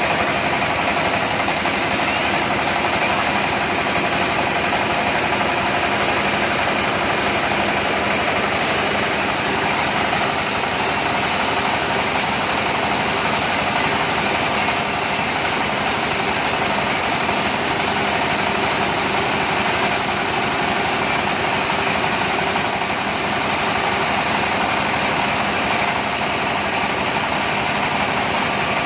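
A motor-driven cassava starch-separating machine running steadily, its mechanical noise constant throughout.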